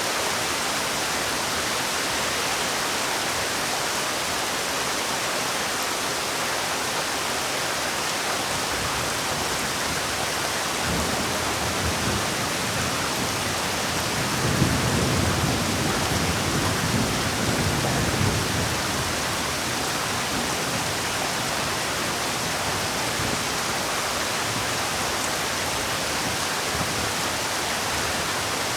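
Steady rain falling, a dense even hiss. About a third of the way in a low rumble of thunder builds, is loudest around the middle, and dies away a few seconds later.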